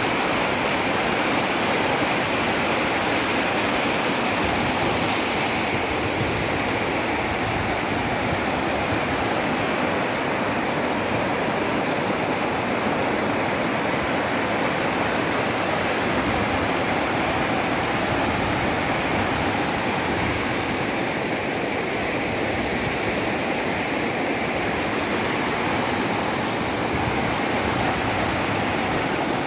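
Waterfall and river water rushing, a loud, steady, even hiss of falling water that does not change.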